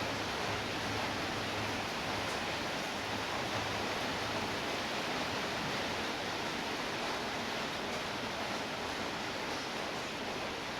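Steady rainfall: an even hiss of rain that holds at the same level throughout.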